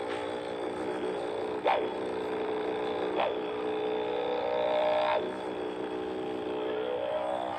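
A beatboxer's voice imitating a didgeridoo: one steady low drone with a buzzing stack of overtones, broken by three short sharp vocal accents.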